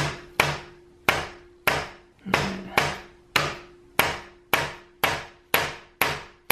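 Rubber mallet tapping steadily on the feet of a bipod clamped to a Benjamin Bulldog air rifle's top rail, about two sharp knocks a second. The blows are driving the tight factory barrel shroud forward off the barrel a little at a time.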